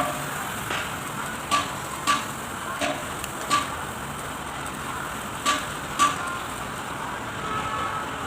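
Sharp metallic taps, about seven, irregularly spaced and often in pairs, each with a brief ringing tone, over a steady background hiss.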